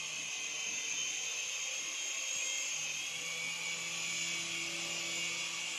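Small electric motors and propellers of an infrared remote-control toy airplane, running with a steady high-pitched whir while it flies.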